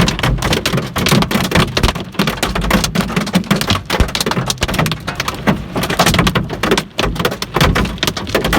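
Large hail, up to golf-ball size, pelting down: a dense, continuous clatter of hard impacts, very noisy.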